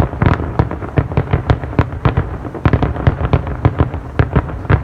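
Fireworks going off in a rapid barrage: many sharp bangs in quick, irregular succession, several a second, with deep booms under them.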